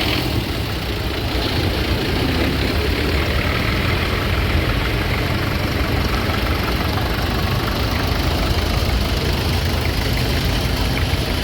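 Engine running steadily, with most of its sound in a deep low rumble.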